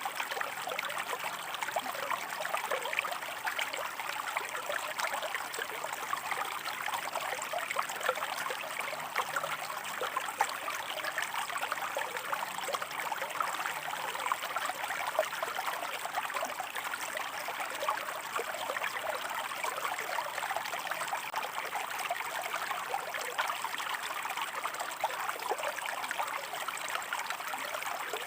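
Shallow stream running over rocks: a steady babble of small splashes and trickles.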